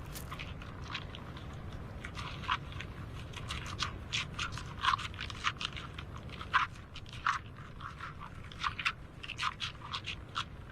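Irregular crunching and crackling: many sharp, uneven clicks, the loudest about five to seven seconds in, over a steady low rumble.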